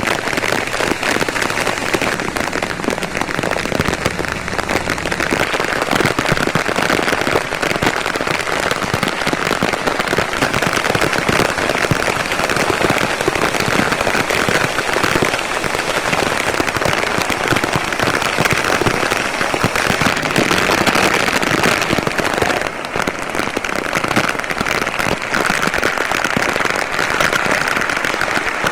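Heavy rain falling steadily, a dense crackle of drops striking hard surfaces.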